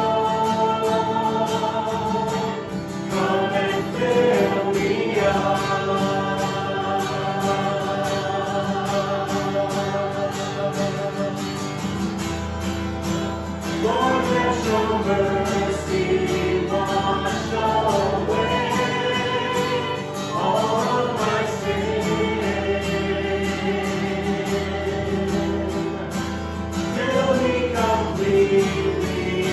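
Worship song: a group of voices singing together over instrumental accompaniment, with long held notes and sliding vocal lines.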